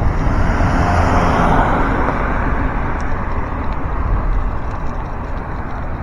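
A car passing close by, its tyre and road noise swelling over the first second or two and then fading away, over a steady low wind rumble on the microphone from riding a bicycle.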